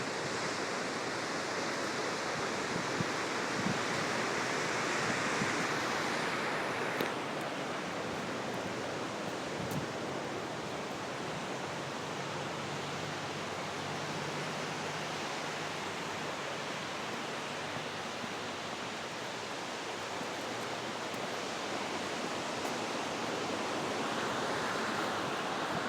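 Steady rush of ocean surf with wind, swelling louder about five seconds in and again near the end.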